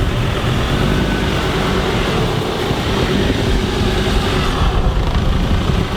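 4WD engine running under load as the vehicle is driven slowly through deep snow, a steady low drone without speech.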